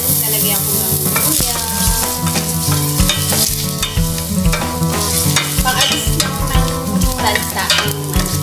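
Slices of food sizzling in hot oil in a nonstick frying pan, with a wooden spatula stirring them and scraping against the pan.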